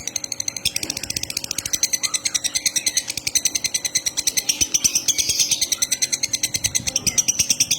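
Caged songbird singing in the 'konslet' style: a fast, even chatter of short high notes at about ten a second, with its beak held open.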